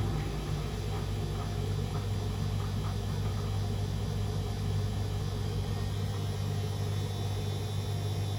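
Beko WMD 46160 washing machine running in its wash cycle: a steady low motor hum with a faint rumble under it, the deepest part of the rumble dropping away near the end.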